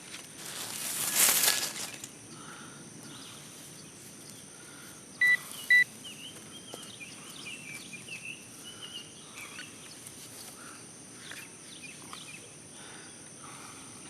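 Metal detector giving two short beeps of the same pitch about five seconds in, signalling metal in the ground, after a loud scraping rush about a second in. A bird sings briefly after the beeps, over a steady high insect drone.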